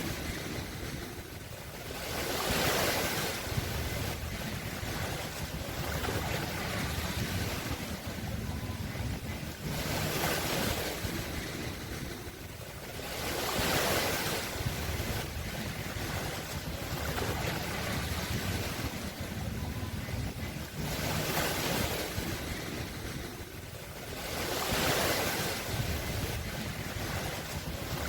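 Sea waves breaking and washing in, a steady rush that swells and fades about five times, several seconds apart.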